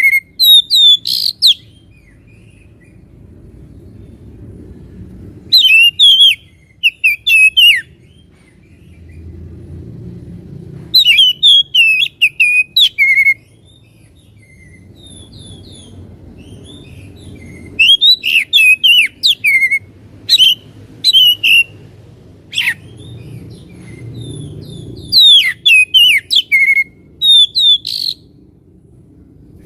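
Oriental magpie-robin (kacer) singing loud, clear bursts of whistled and chattering phrases, about five song bouts with pauses of a few seconds between them.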